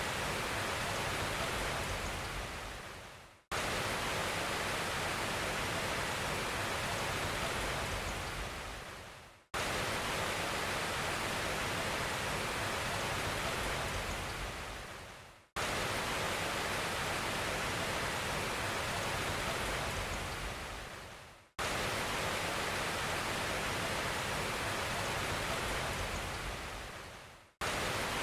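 A steady rushing hiss like rain or falling water that fades out and cuts back in abruptly about every six seconds, five times over: a short noise recording played on a loop.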